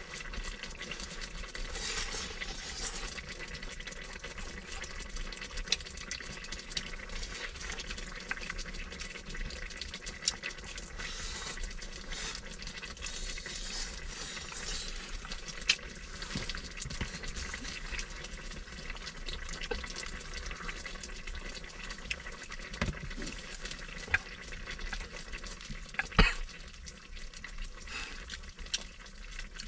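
Food cooking on a heating stove: a steady sizzling hiss with scattered light crackles and clicks, and one sharper knock about 26 seconds in.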